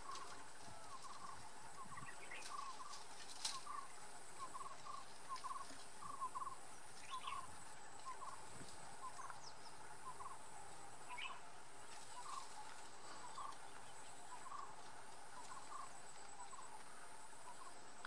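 A bird calling over and over in short chirping notes, often in pairs, about two a second, over a steady high insect buzz that breaks off and resumes every second or two. A single sharp click sounds about three seconds in.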